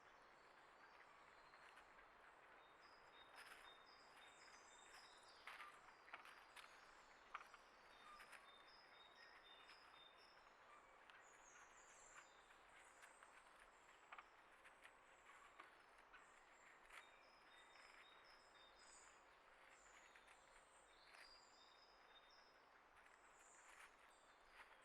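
Faint outdoor ambience with small birds chirping softly on and off, short high chirps, and a few brief clicks.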